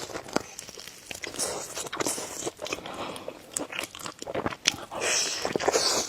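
Close-up eating sounds of a person chewing spicy noodles and eggs, with many short wet mouth clicks and brief sucking hisses, the loudest near the end.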